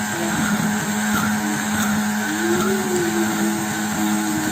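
Electric kitchen blender motor running steadily while blending egg yolk, vinegar, salt and sugar into a mayonnaise base. Its hum wavers up and down in pitch a little past the middle.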